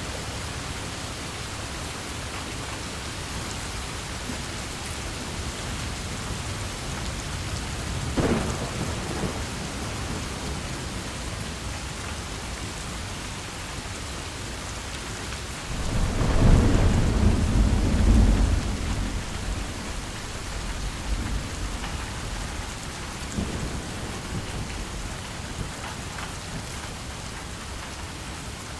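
Steady heavy rain with thunder: a sharp crack about eight seconds in, then a loud low rolling rumble about halfway through that fades over a few seconds.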